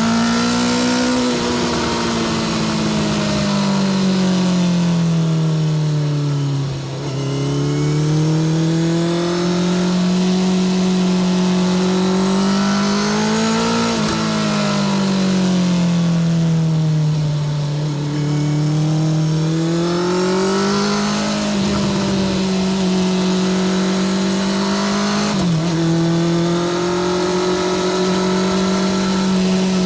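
Honda CBR650R inline-four motorcycle engine through a Spark full titanium short exhaust, under way: the engine note climbs and falls several times as the bike speeds up and slows, with brief sudden breaks in the note, about seven seconds in and again near the end.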